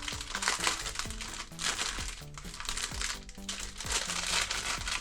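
Plastic packaging crinkling and rustling in bursts as a digital thermostat is unboxed, over background music with a steady beat.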